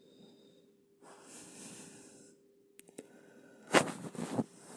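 Handling noises as the plastic parts of an electric kettle are fitted back together: soft rubbing, two small clicks, then a short louder rush of noise about four seconds in, over a faint steady hum.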